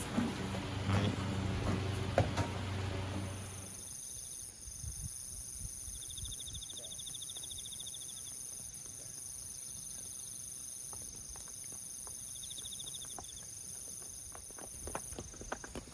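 Insects trilling in the grass: steady high-pitched calls, with a pulsed, buzzing trill heard twice. The first few seconds hold a low hum with a few knocks, and near the end a horse's hooves start to clop.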